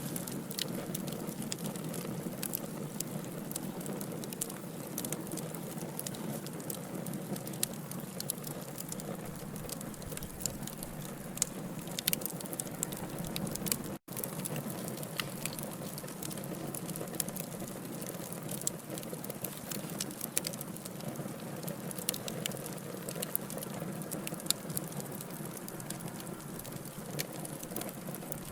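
Wood fire of burning logs crackling steadily, with frequent sharp little pops and snaps over a soft hiss. The sound cuts out for an instant about halfway through.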